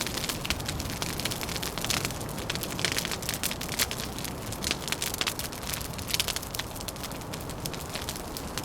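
Wood fire crackling with many irregular sharp pops, over a steady low rumble of wind.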